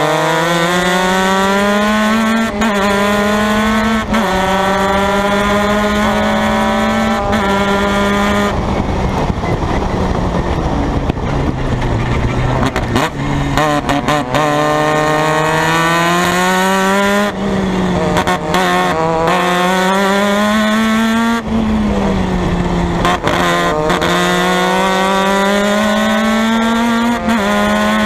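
Formula Mazda race car engine at racing speed, revving up and shifting up through the gears several times. About a third of the way in it comes off the throttle and the pitch falls through downshifts for a corner, then it accelerates hard again with further upshifts.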